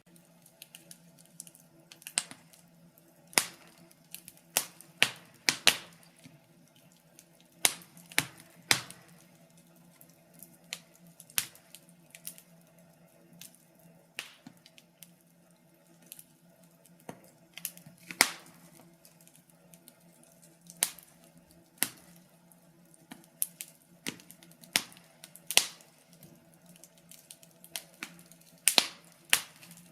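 Wood fire crackling in a fireplace: irregular sharp pops and snaps, a louder one every second or two, over a faint steady low hum.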